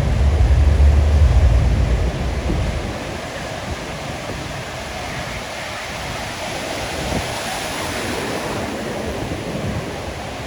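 Deep rumble of a passing aircraft that dies away after about two seconds, leaving a steady noise of surf and wind.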